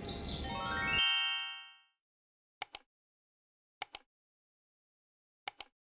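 A quick rising run of chime notes rings out over birds chirping and a steady outdoor ambience, which cuts off abruptly about a second in. Then come three faint double clicks in silence.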